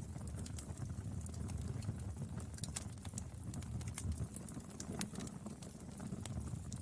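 Burning firewood crackling with frequent irregular sharp pops and snaps over a low, steady rumble of the flames.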